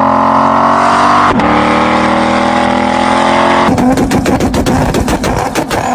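A car engine at high revs, its note climbing steadily under acceleration with a short break about a second and a half in. Near the end it gives way to a rough, popping burble with rapid sharp cracks.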